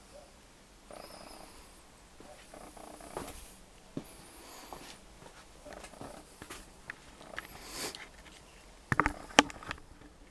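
Hand work on a motorcycle engine being assembled: scattered clicks and short scraping sounds, then a quick cluster of sharp knocks near the end.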